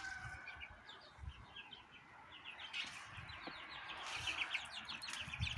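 Faint chirping of small birds: quick runs of short, high chirps, thickest near the end.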